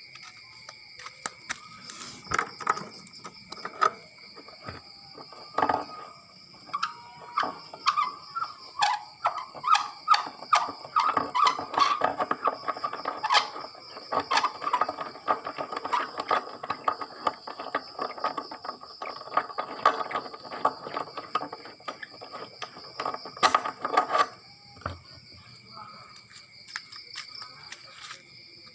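Crickets chirping steadily at night, under a dense clatter of sharp clicks and knocks that starts about a second in and stops suddenly about four seconds before the end.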